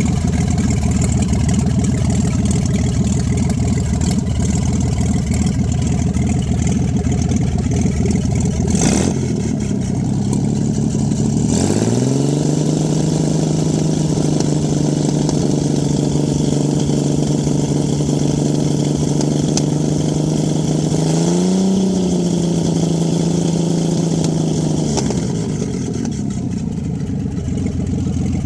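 A freshly rebuilt Chevrolet 235 inline-six idles, is brought up to a steady higher speed about 11 seconds in and held there with a short blip, then drops back to idle near the end.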